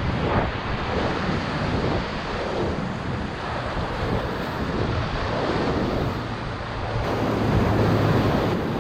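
Whitewater of a river rapid rushing steadily around a raft, with wind noise on the microphone.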